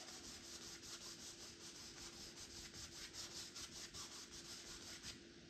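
Paintbrush scrubbing paint onto a canvas in quick back-and-forth strokes, a faint rhythmic scratching that stops about five seconds in.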